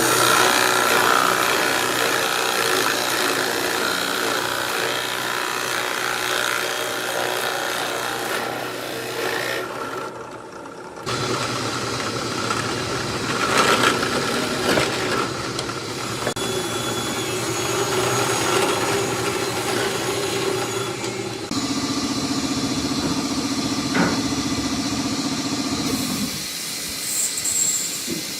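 Power tools running and working wood, with a steady motor hum under grinding and rubbing noise. The sound changes abruptly a few times, as if separate clips were cut together.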